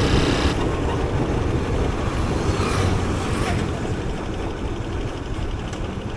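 Motorcycle engine and road noise while riding, steady and dense, dropping a little about half a second in.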